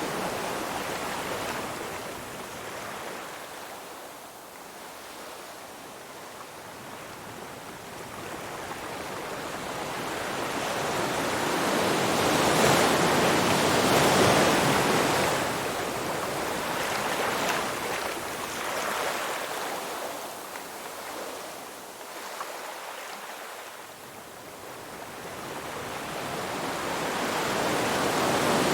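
Ocean surf: waves break and wash in as a rushing swell, then draw back and fade, rising and falling roughly every ten seconds, with the biggest wave about halfway through.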